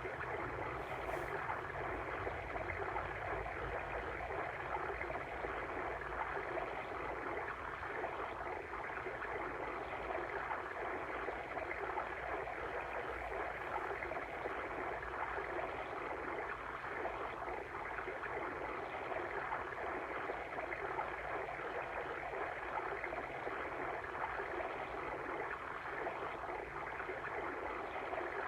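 Water stream flowing steadily, an even rushing and trickling with no breaks.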